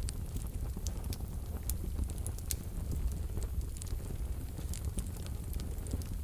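Wood fire burning in a wood-burning stove: a low steady rumble of the flames with soft, irregular crackles and pops.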